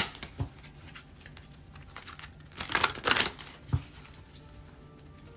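Tarot cards being handled and shuffled: a brief rustling flurry of cards about halfway through, with a soft knock of cards set down near the start and another just after the flurry.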